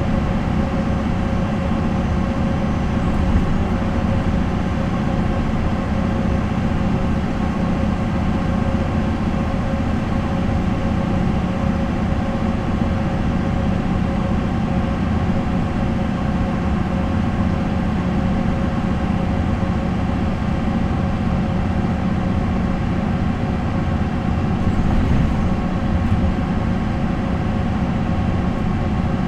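MAN NL 263 bus's D28 diesel engine running at a steady, unchanging speed with a constant hum.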